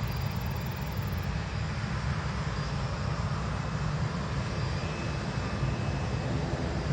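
Jet airliner's engines running with a steady low rumble and a faint high whine.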